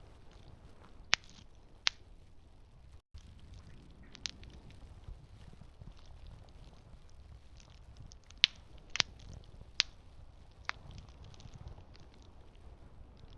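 Campfire burning: wood crackling with scattered sharp pops a second or more apart over a low steady rumble.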